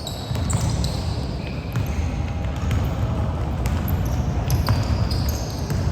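Basketball play on an indoor court: the ball bouncing repeatedly, with short high squeaks, most likely sneakers on the floor, over a steady low rumble of the gym.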